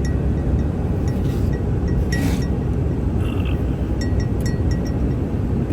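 Steady low rumble of a vehicle driving, heard from inside the cabin, with faint light ticks and clinks now and then.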